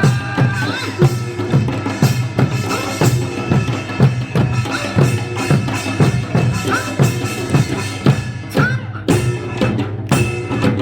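Korean folk music played live: drums beating a steady rhythm of about three strokes a second under a sustained melodic line.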